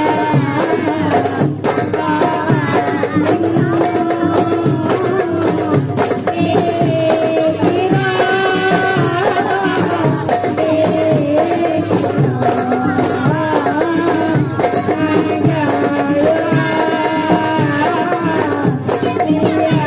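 Marawis ensemble playing: a steady rhythm on hand drums with tambourine jingles, under a held, wavering melody line.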